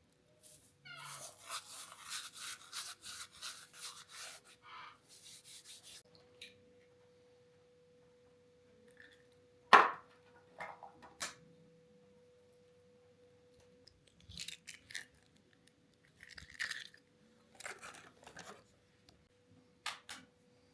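Brisk rubbing or scraping strokes, about four a second for several seconds, then a single sharp knock, followed by scattered short rustles, over a faint steady hum.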